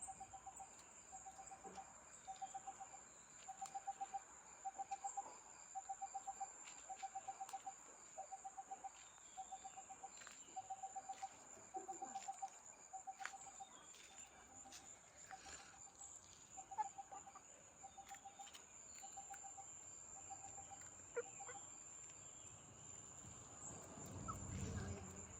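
Faint garden birdsong: a bird repeats a short, low trilled note about three times every two seconds, stopping shortly before the end, over a steady high-pitched insect drone. A low rumble comes near the end.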